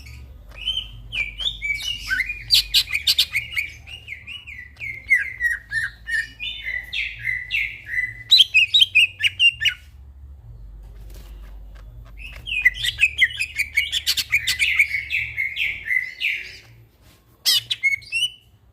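A cucak ijo (green leafbird) singing in long runs of rapid, varied chattering and whistled notes. There are two long phrases with a pause of a couple of seconds between them, then a few short notes near the end, over a faint low hum.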